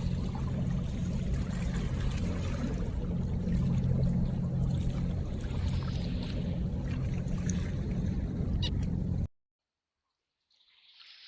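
River ambience: running water under a steady low hum, with occasional duck calls. It cuts off abruptly about nine seconds in, and a faint short call follows near the end.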